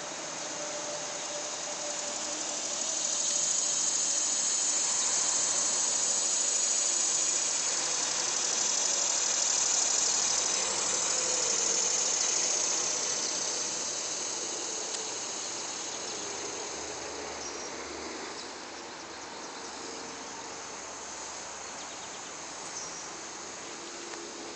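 Cicadas in chorus, a dense high-pitched buzzing drone that swells louder a few seconds in, holds, then fades off over the second half.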